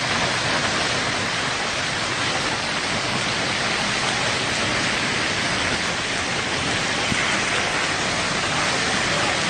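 Heavy precipitation pelting down, a dense steady hiss that fades in at the start.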